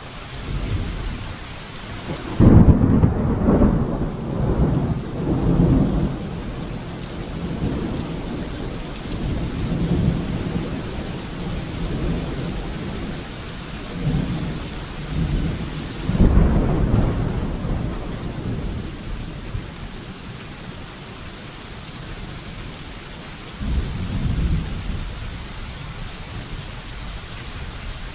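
Steady rain falling through a thunderstorm, with rolling thunder. A loud clap a few seconds in rumbles on for several seconds, a second one comes about midway, and a fainter rumble sounds near the end.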